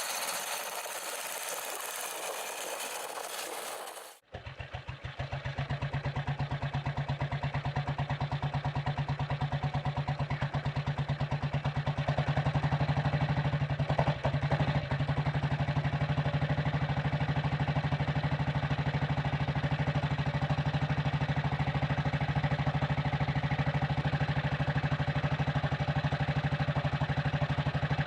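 Restored antique motorcycle engine running steadily at idle with an even, rapid beat. It comes in abruptly about four seconds in, after a steady hissing noise.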